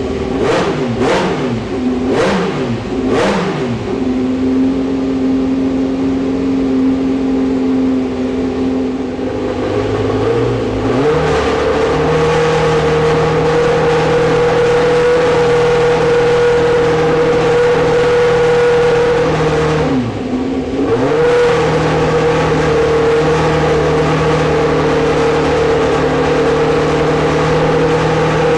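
Historic Formula 1 race car engines: quick rises and falls in revs during the first few seconds, then an engine held at steady high revs for a long stretch, dropping briefly and picking straight back up about twenty seconds in.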